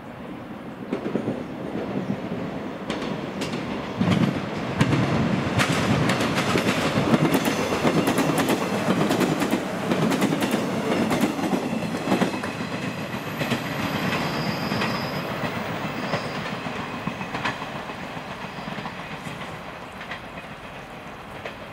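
JNR 113 series four-car electric multiple unit passing close, its wheels clacking over rail joints and points in quick irregular strikes. The rumble builds as the train approaches, is loudest as it goes by, then fades as it pulls away.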